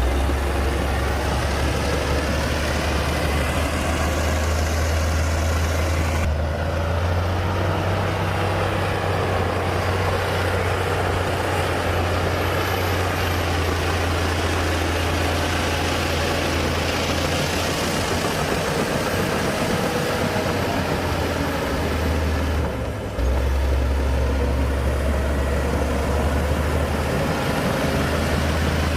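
Heavy diesel engine of earthmoving machinery running steadily with a deep, low drone, changing abruptly about six and twenty-three seconds in.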